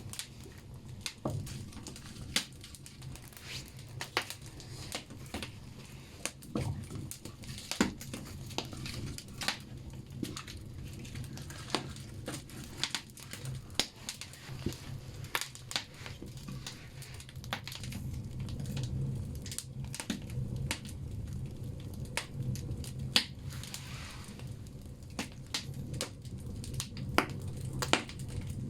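Firewood burning in a banya stove, crackling with irregular sharp pops over a low, steady rumble.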